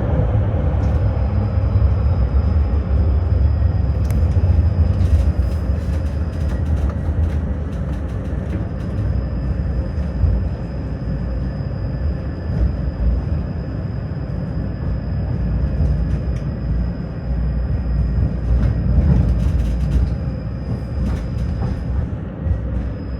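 Tram running between stops, heard from inside the car: a steady low rumble, with scattered sharp clicks and clatters from the wheels on the track and a faint, steady high whine.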